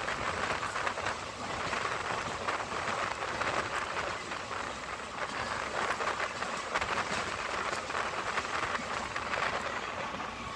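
Passenger train running at speed, heard from an open coach door: a steady rush of wheels on rail and air, with many small clicks through it.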